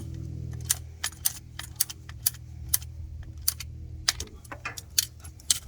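Sharp metallic clicks and clinks, about two a second and irregular, as hand tools and pipe fittings are handled, over a steady low hum.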